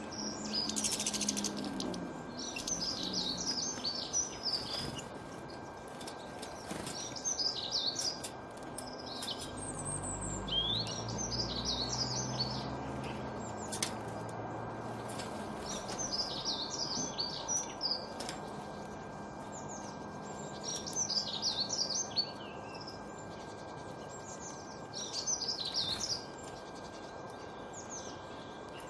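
Small songbirds singing: short bursts of rapid, high chirping phrases that recur every few seconds over a steady background hiss. A low rumble swells and fades around the middle.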